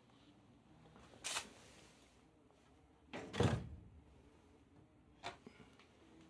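A few short knocks, the loudest a heavier clunk with a brief rush of noise about three seconds in.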